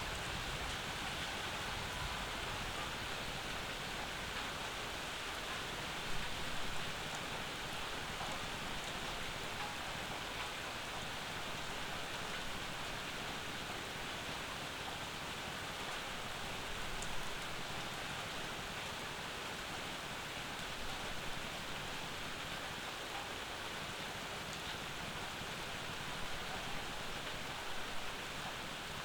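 Steady summer rain falling on and around an old house's porch, an even hiss with a few individual drops or drips standing out now and then.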